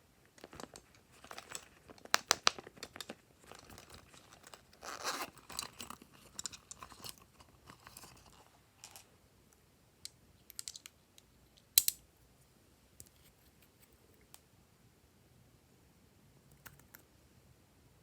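Slime and add-in materials being handled and mixed by hand: irregular bursts of crackling and clicking, with one sharp click about twelve seconds in and only scattered ticks after it.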